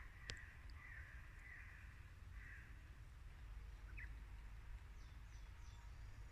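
Quiet forest, with a few faint, harsh calls of a distant bird in the first few seconds and a single small click just after the start.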